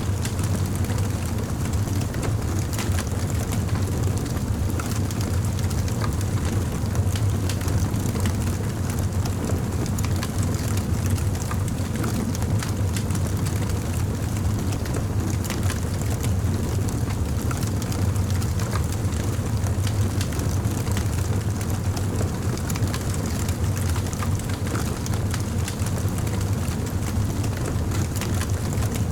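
Campfire burning: a steady low rumble of flames with frequent small crackles and pops from the burning wood.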